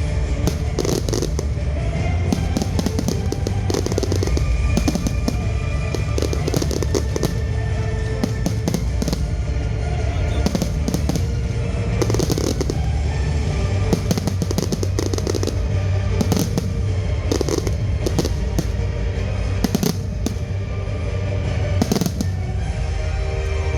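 Fireworks going off in quick succession, many sharp cracks and bangs over a constant low rumble, with music playing alongside.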